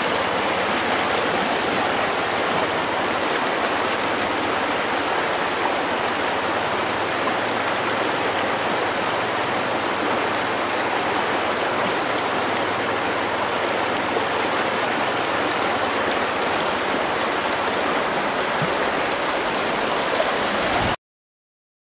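Shallow river rushing over rocks in rapids, a steady continuous water noise that cuts off suddenly near the end.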